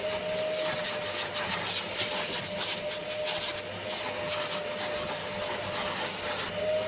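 Vacuum cleaner running with a steady motor whine, its rushing air noise wavering in level.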